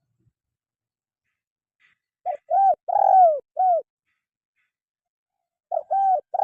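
Spotted dove cooing: a phrase of four short, arched coo notes about two seconds in, the third note the longest, then the same phrase starting again near the end.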